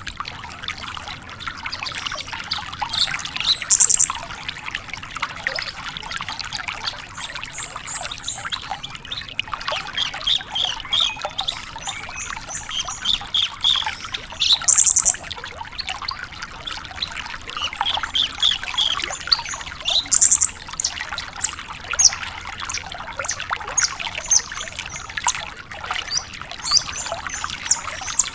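Javan bush lark (branjangan) singing a fast, varied song of high chirps, trills and sharp clicks in repeated bursts, over a steady trickling, water-like hiss.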